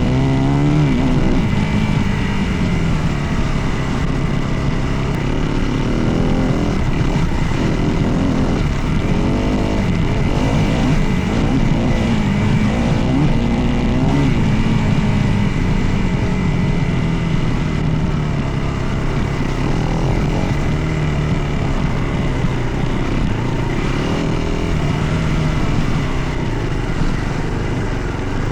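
Dirt bike engine running under way, its pitch rising and falling repeatedly with throttle and gear changes, over steady rough riding noise.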